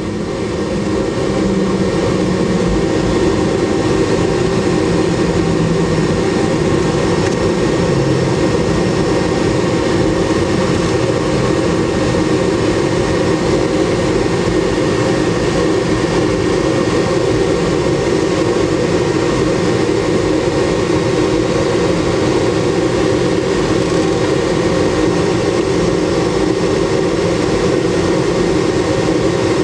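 Boeing 717's Rolls-Royce BR715 turbofan engines running, heard from inside the passenger cabin as a loud, steady drone with a strong low hum.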